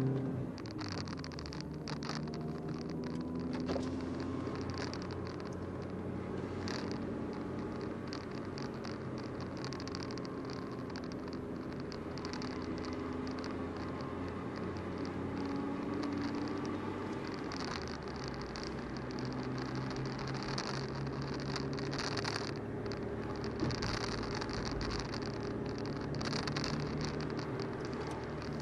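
Volkswagen Golf Mk4 driving with a broken, leaking exhaust: the engine note rises and falls with the revs over steady road noise.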